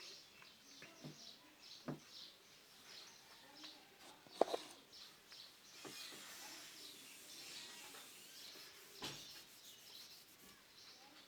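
Faint birds chirping in the background, a quick run of short high chirps, with a few sharp clicks; the loudest click comes about four and a half seconds in.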